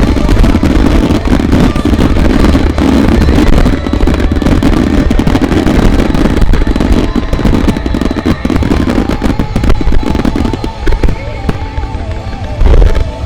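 A starmine fireworks finale: many shells bursting in rapid, overlapping succession with dense crackling, over show music from loudspeakers. The barrage thins out after about ten seconds, with one more loud burst near the end.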